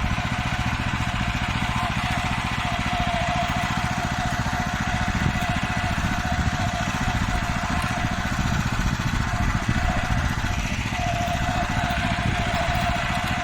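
Farmer 1511 walk-behind tractor's engine running steadily under way. A steady whine sits above the engine and fades for a couple of seconds about two thirds of the way in.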